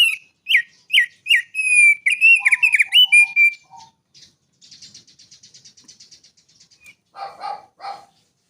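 Songbird singing: a run of loud, clear whistled notes that each drop in pitch, then a fast, quieter high trill, and a few harsher chattering notes near the end.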